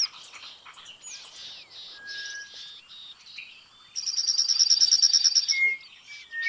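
Several wild birds calling. Short scattered chirps come first, then about four seconds in a loud, rapid trill of repeated high notes, around eleven a second, lasts for a second and a half. A short whistled note follows near the end.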